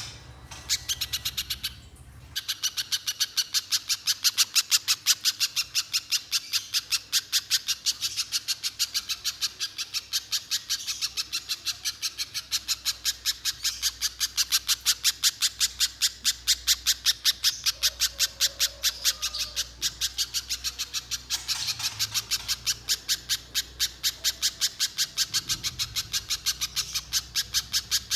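Little spiderhunter (pijantung pisang) calling nonstop: a fast, unbroken run of sharp, high chip notes at about four to five a second, the long continuous 'gacor' calling of an excited bird.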